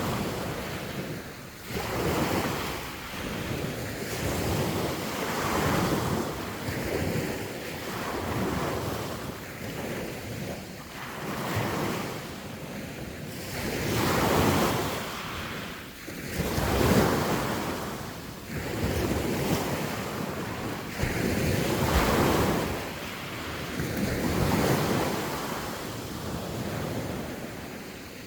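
Sea waves washing onto the shore, swelling and falling in repeated surges every couple of seconds, with wind buffeting the microphone.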